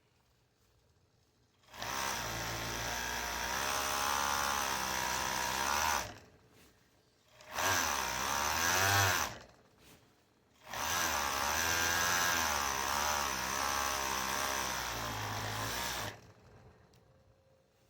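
Electric sewing machine stitching in three runs, about four seconds, two seconds and five seconds long, its motor speeding up and slowing under the pedal.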